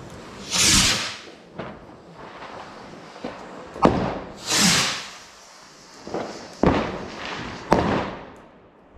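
New Year's Eve fireworks going off: two hissing whooshes of about half a second each, one near the start and one about halfway, and three sharp bangs, the last two close together near the end, with smaller scattered pops between them.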